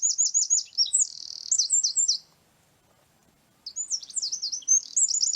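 A small songbird singing: rapid runs of high, downward-sweeping notes. It breaks off for about a second and a half midway, then starts again.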